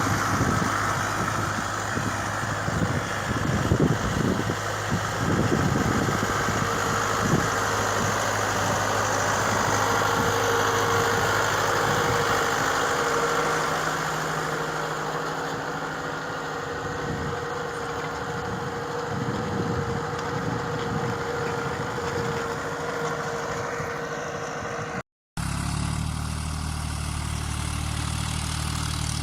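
Tractor engine running steadily, with a few knocks in the first seconds. After a brief cut about 25 seconds in, another engine runs with a lower, steady hum.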